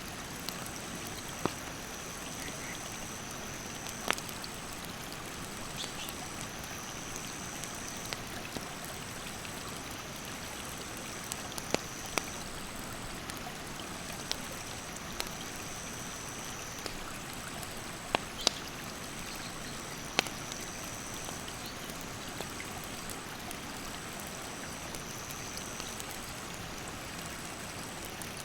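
Mountain stream rushing steadily while a wood campfire crackles, with about a dozen sharp pops scattered through it. High insect calls run over the top, one repeating about every second and a half.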